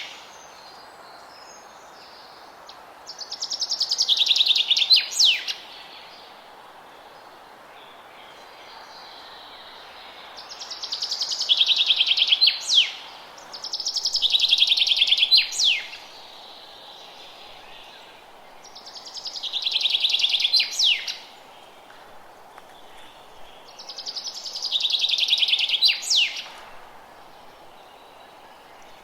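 A songbird repeats the same song phrase five times, a few seconds apart. Each phrase is a fast, buzzy trill of about two seconds that swells in loudness and ends in a few quick downward-sweeping notes. A steady low hiss of outdoor background noise runs underneath.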